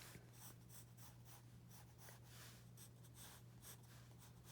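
Soft graphite pencil shading on paper: faint, quick back-and-forth scratching strokes, over a low steady hum.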